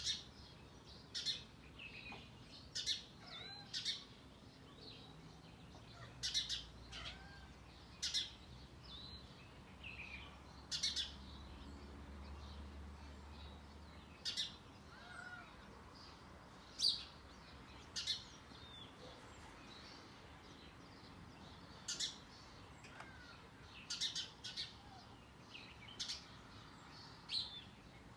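A bird making short, sharp chirps at an irregular pace, roughly one every second or two, with softer short whistles in between.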